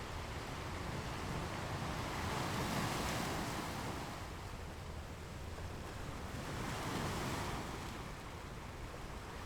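Sea waves breaking and washing on a beach, two swells rising and falling, the first peaking about three seconds in and the second about seven seconds in.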